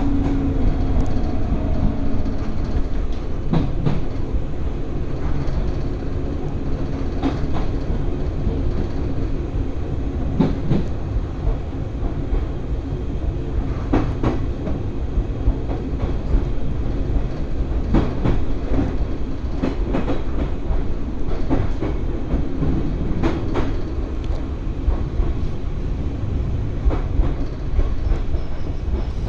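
Electric commuter train running between stations, heard from inside the car: a steady low rumble of wheels on rail, with sharp clicks every few seconds as the wheels cross rail joints. A falling motor whine fades out in the first second.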